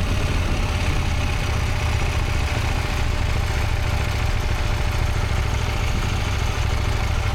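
Motorcycle engine idling steadily, a low even rumble with no revving.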